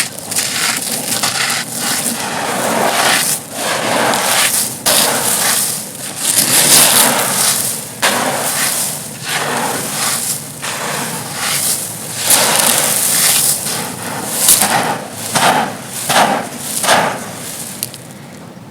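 Dry, dusty, stone-textured chunks being crushed and crumbled in a rapid, irregular series of gritty crunches. The crunching stops near the end.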